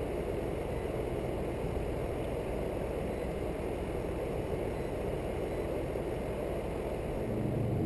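Condenser fan of a rooftop Trane air-conditioner condensing unit running steadily while the compressor stays silent: the compressor is not starting despite receiving power, which the technician later puts down to the system having no refrigerant and the compressor having locked up.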